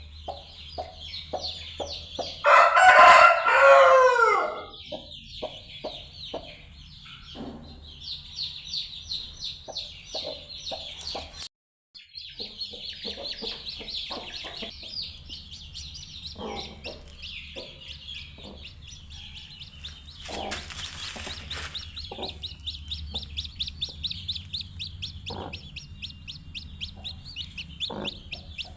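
Chickens clucking, with a running stream of high, rapid peeping from chicks. A rooster crows loudly about three seconds in, and a short rustling burst comes about two thirds of the way through.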